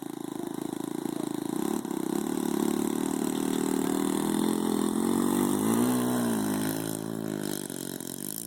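Saito .91 four-stroke glow engine of a radio-controlled airplane running at high throttle, its pitch rising and falling about six seconds in and dipping then climbing again near the end.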